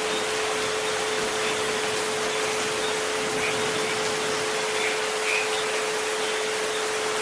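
Steady rain hiss mixed with a continuous pure tone near 432 Hz and a fainter tone near 528 Hz, both held without a break.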